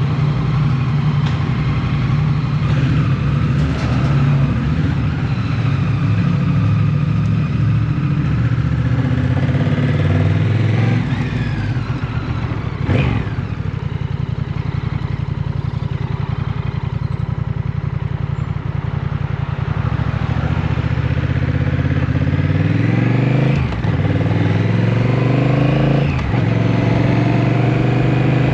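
Motorcycle engine heard from the bike while riding: a steady cruising note that falls off a little before halfway, then revs climbing under acceleration, broken by two brief dips at gear changes in the second half.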